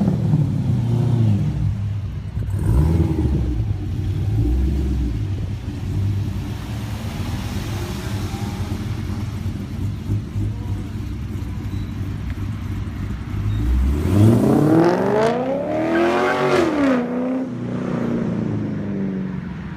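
VE Clubsport V8 through an aftermarket sports exhaust with extractors, idling steadily. It gets a small throttle blip about three seconds in, then a big rev about two-thirds through that climbs, peaks twice and drops back to idle.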